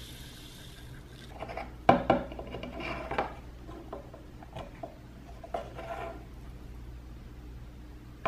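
Hard plastic parts of a small toy toilet candy maker being handled: sharp clicks and knocks about two seconds in, then scattered smaller clicks and rubbing as the lid and tank are worked.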